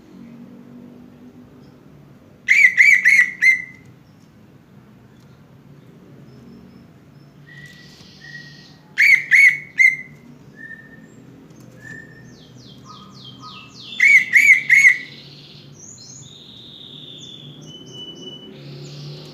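Green leafbird (cucak ijo) song: three loud bursts of four or five quick repeated notes about six seconds apart, with softer whistled notes and runs of fast downward chirps between them.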